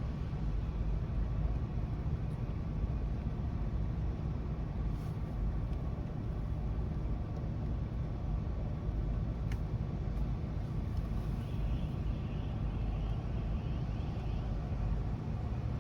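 Steady low outdoor rumble with no distinct thunderclap, and a faint run of short high chirps near the end.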